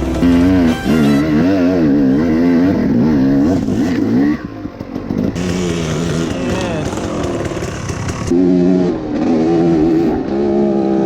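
Dirt bike engines revving up and down over and over, the pitch rising and falling with the throttle, with brief lulls about four and eight seconds in.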